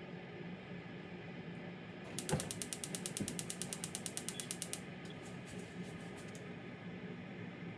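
A fast, even run of mechanical ratcheting clicks, about ten a second, lasting nearly three seconds, then a few fainter clicks, over a steady low hum.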